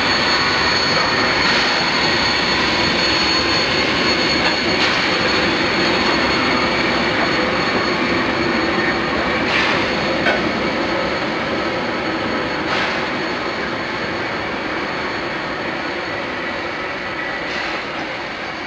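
Steam-hauled passenger train rolling past: a steady rushing rumble of wheels and carriages with a thin steady high whine and a few scattered clanks, slowly fading over the last few seconds as the train moves away.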